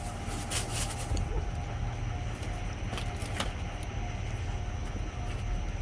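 Steady low rumble with a faint steady whine over it, and a few sharp clicks and rustles of items being handled and dropped in a dumpster.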